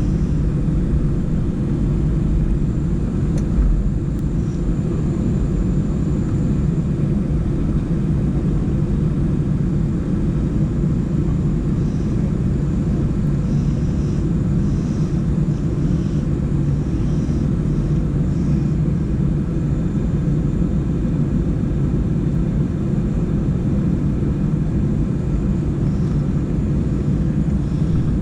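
Steady low rumble inside the cabin of an Airbus A319 airliner.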